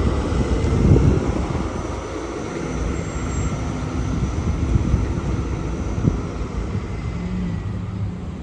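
Road traffic going by: the steady rumble of passing motor vehicles, loudest about a second in.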